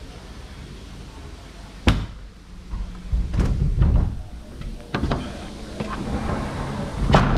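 A sharp knock about two seconds in, then a series of thumps and clicks, the loudest near the end, over a low steady rumble.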